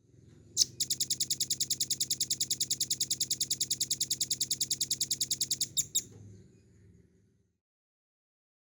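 Velvet-fronted nuthatch (rambatan paruh merah) singing: a sharp opening note, then a long, very fast trill of even high notes at about ten a second (the 'ngebren' drilling song), ending with two separate notes about six seconds in.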